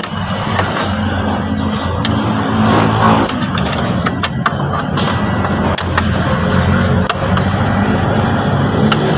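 An engine running steadily at idle, with scattered sharp metallic clicks and taps of hand tools working on screws.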